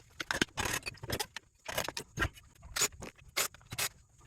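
Hand tools and metal parts clinking and scraping in quick, irregular strokes as a water pump's electric motor is taken apart for scrap.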